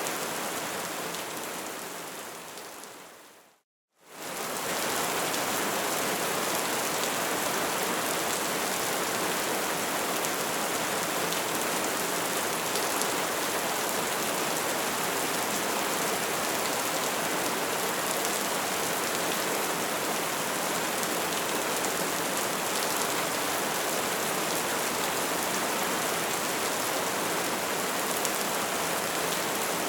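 Crackling bonfire: a dense, even crackle and hiss that fades out over the first few seconds, drops to silence for a moment just before four seconds in, then quickly comes back and runs on steadily.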